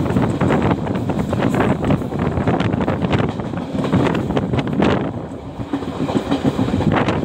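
Passenger train heard from on board at speed: steady running rumble with the wheels clattering over rail joints.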